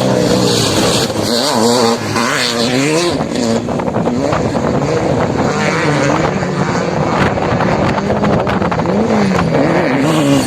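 Off-road vehicle engine revving up and down over and over as the throttle is worked, over a steady rush of noise.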